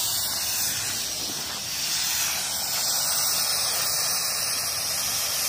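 Oxy-fuel cutting torch hissing steadily as it burns holes through steel plate.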